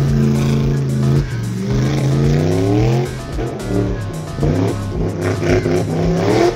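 A Toyota hatchback drift car's engine revving hard, its pitch rising twice: from about a second and a half in, and again near the end. Background music with a steady beat plays underneath.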